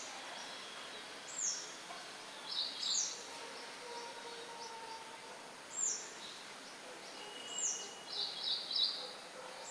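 Several wild birds chirping over a steady hiss of wind in the trees. Sharp, high calls sweep downward every second or two, with quick runs of short notes about three seconds in and again near the end.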